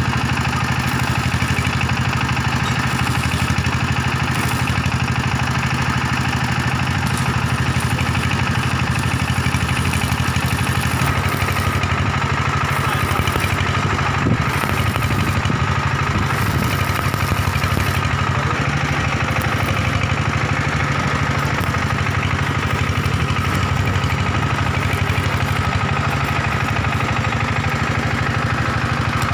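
Excavator's diesel engine idling steadily, with a single short knock about halfway through.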